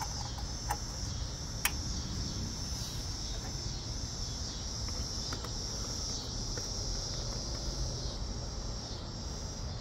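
Crickets chirping in a steady high-pitched chorus over a low steady rumble, with a few light clicks in the first two seconds.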